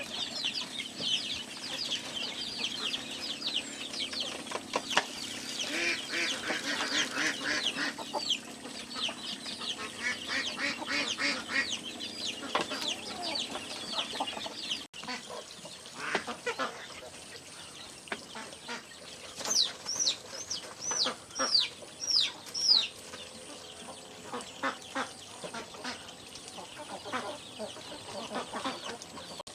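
Chickens clucking, with many short calls overlapping. About twenty seconds in comes a run of high, quickly falling peeps.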